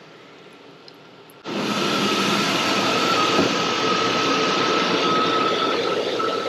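Chevrolet Silverado pickup's engine, treated with Seafoam and Lucas oil stabilizer for a lifter tick, comes in suddenly about a second and a half in and runs loud and steady with a whine over it. The owner says it sounds the best it has in a year.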